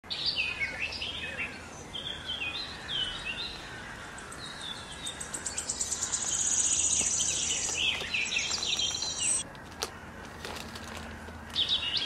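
Birds chirping in quick, high, falling notes, with a fast rattling trill in the middle.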